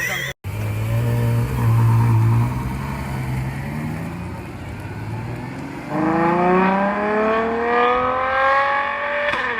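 Ferrari GTC4Lusso's 6.3-litre V12 running steadily at low revs, then about six seconds in accelerating hard, its pitch climbing steadily for about three seconds before cutting off.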